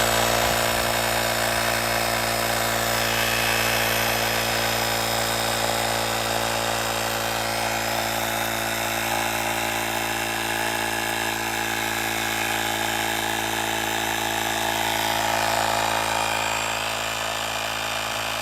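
Portable 150 psi tire inflator's small piston compressor running steadily, pumping air into a tire.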